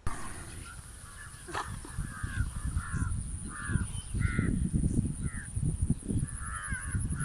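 Crows cawing repeatedly in short calls, over an uneven low rumbling noise.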